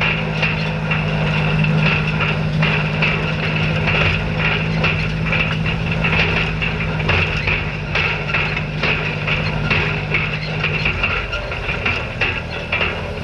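Old farm tractor engine running steadily while raking hay, with frequent knocks and rattles over its drone; the engine note drops away about eleven seconds in.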